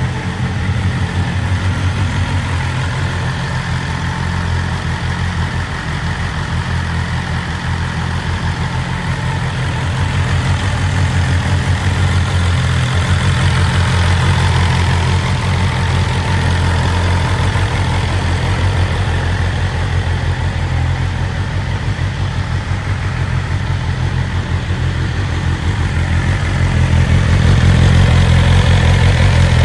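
BMW S1000RR's inline-four engine idling steadily, getting a little louder near the end.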